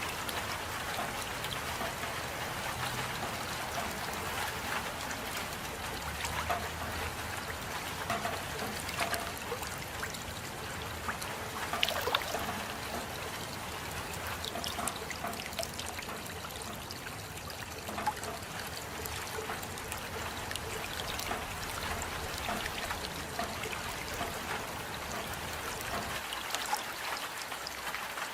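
Steady rain with water trickling and scattered drips, a few louder drops standing out.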